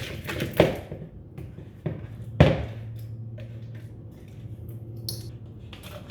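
Kitchen clatter: a few sharp knocks of cups, bowls or utensils being handled and set down, the loudest about two and a half seconds in, over a steady low hum.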